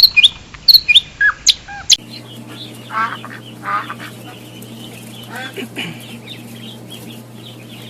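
Birds calling: a quick run of sharp, loud calls in the first two seconds, then, after a cut, softer scattered clucking and chirping calls over a steady low hum.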